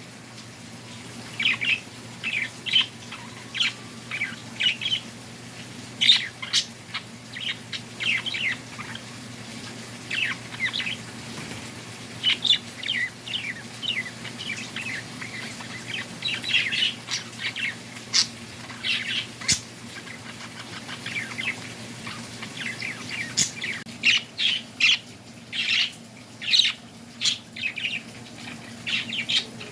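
Small birds chirping, many short, quick calls following one another throughout, over a faint steady low hum.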